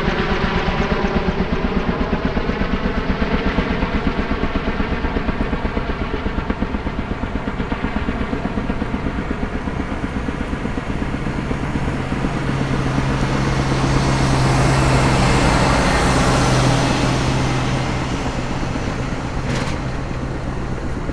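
Kaman K-MAX K-1200 helicopter running, its Honeywell T53 turboshaft whining under the fast, even thumping of its two intermeshing rotors. A steady low hum joins about halfway through, and the sound swells to its loudest a little later before easing off.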